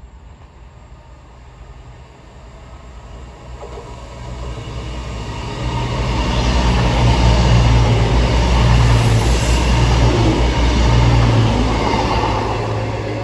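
Train running past on the line, its low rumble and wheel noise building over several seconds, staying loud through the middle, then easing off near the end.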